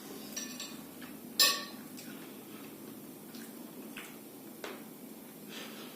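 Cutlery clinking against a plate: one sharp clink about a second and a half in, with a few fainter clicks after it.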